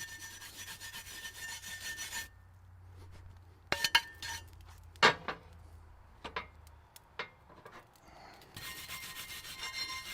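Scraping on a cast-iron waffle iron in two spells of about two seconds each, one at the start and one near the end, with a few sharp metal knocks in between.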